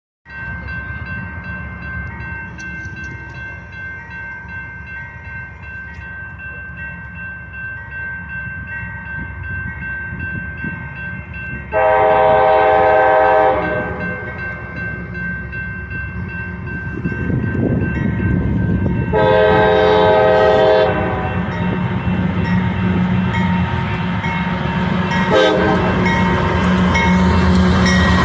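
CSX diesel freight locomotive sounding its air horn: two long blasts about seven seconds apart, then a short one, the start of the grade-crossing signal. This plays over a steady diesel engine rumble that grows louder as the train approaches.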